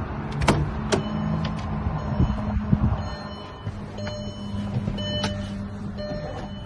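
A car running at low speed with a steady low hum, broken by a few sharp clicks about half a second and a second in, and short high tones that come and go.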